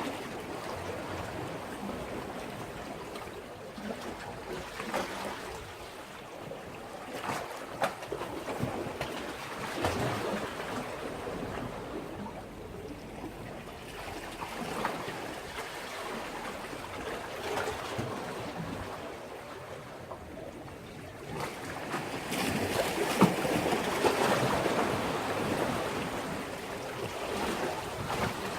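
Sea waves washing and splashing against a breakwater, in uneven surges with a louder swell about three quarters of the way through.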